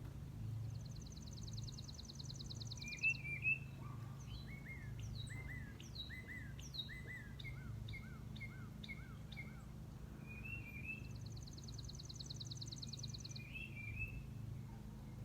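Songbirds singing and calling around a backyard bird feeder: a fast, high trill near the start and again near the end, with a run of short, downward-slurred whistled notes between them. A steady low hum runs underneath, and two brief thumps sound about three seconds in.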